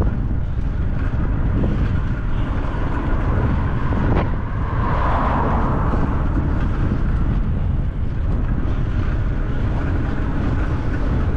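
Wind rumbling on the microphone of a bicycle-mounted camera while riding, with a sharp click about four seconds in.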